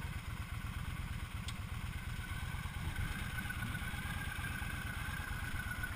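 Motorcycle engine idling with a steady, even low pulse, and a faint thin whine joining about halfway through.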